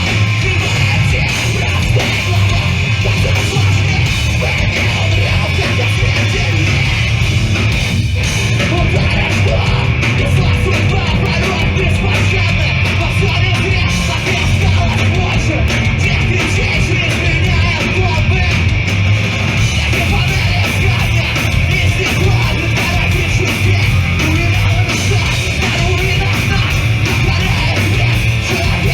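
Live hardcore punk band playing loudly: distorted electric guitars, bass and drums, with shouted vocals.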